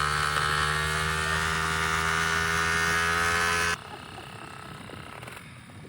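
Pit bike engine running at high, fairly steady revs with a buzzy tone, which cuts off abruptly almost four seconds in. A much quieter background follows.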